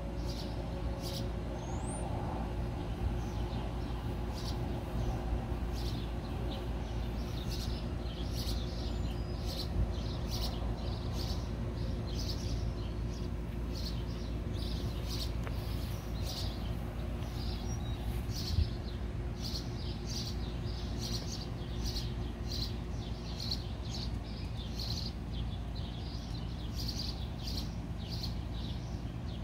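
Small songbirds chirping in short, repeated calls over a steady low background hum, with one short thump about two-thirds of the way through.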